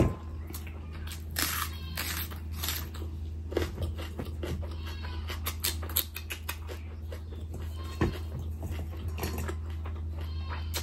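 Close-miked eating of mutton curry and bhatura: wet chewing and repeated lip smacks, with a sharp smack right at the start and another about eight seconds in.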